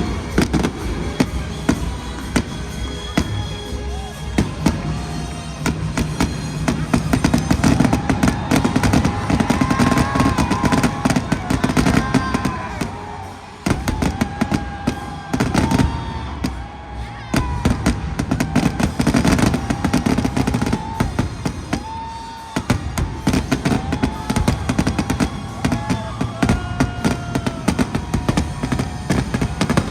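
Fireworks going off in rapid, dense bangs and crackles over loud music playing with a melody.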